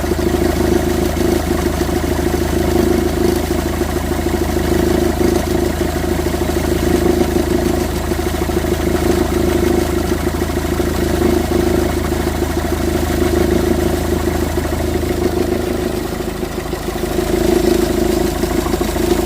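Engine idling with a steady, loud mechanical noise from the accessory drive, coming from a failed ("HS") accessory-belt tensioner that moves far more than it should.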